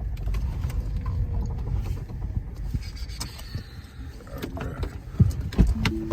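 Low rumble of a car moving slowly, heard from inside, with a few sharp knocks near the end, the loudest about five and a half seconds in.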